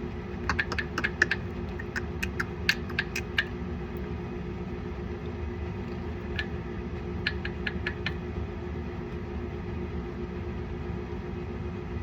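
Quick light clicks and taps in two bursts, the first about half a second in and the second around six seconds in, over a steady low hum.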